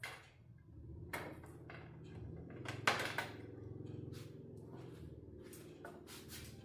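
Scattered light clicks and knocks from tools and parts being handled during TV repair work, the loudest about three seconds in, over a steady low hum.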